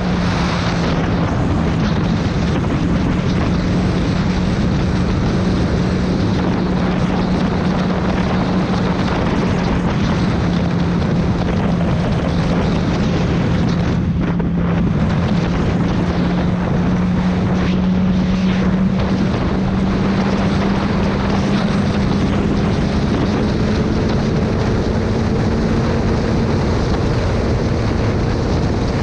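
Motorcycle engine running at a steady cruise, heavily mixed with wind rushing over the microphone. The engine note climbs gradually in the last third as the bike speeds up.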